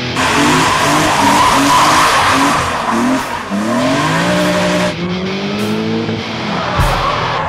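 Car tyres squealing in a slide, over a revving engine whose note climbs in pitch several times in the second half.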